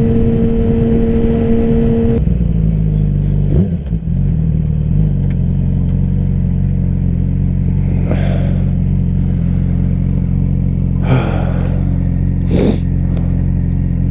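Motorcycle engine under way: a steady, high engine note that drops about two seconds in as the revs come down, then settles into a lower steady drone. Three short rushes of noise pass over it in the second half.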